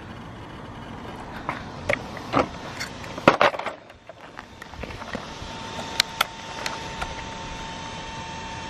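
Clicks and knocks of a broken RC truck's plastic parts being handled and turned to show the damage, over a steady background hiss. A faint steady tone comes in about halfway.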